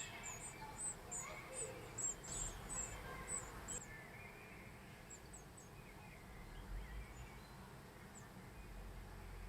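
Faint outdoor ambience with a run of short, very high, thin chirps, about two or three a second, that stop about four seconds in; a few scattered chirps follow.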